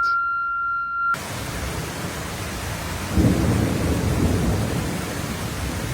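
Heavy rain hissing steadily, with a rumble of thunder that swells about three seconds in and fades over the next two. In the first second a steady high tone is heard, cut off suddenly.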